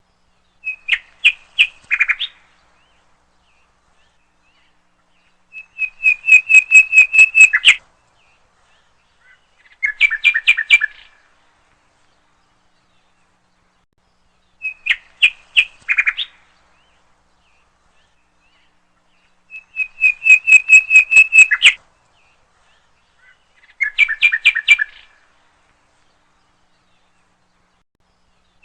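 A bird chirping in short bursts of rapid, evenly spaced chirps, with dead silence between the bursts. A set of three bursts repeats identically about every 14 seconds, a looped recording.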